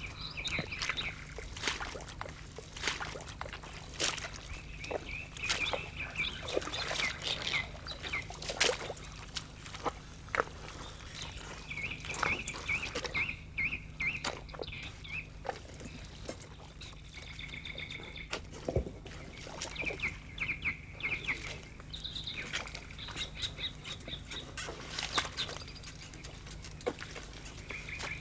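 Birds chirping in short repeated calls every few seconds, over a steady low hum and many scattered sharp clicks.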